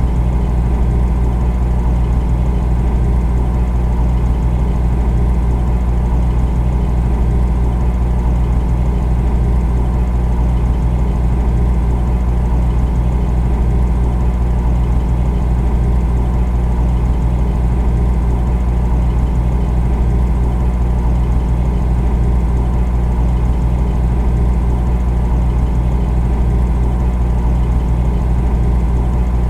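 Refrigerator running with a steady, loud low hum with a slight rapid flutter in it, unchanging throughout.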